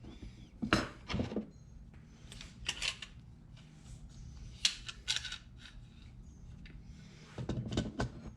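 Hand tools clicking and scraping against a motorcycle carburetor's metal body in a few short bunches, as the float bowl is worked loose.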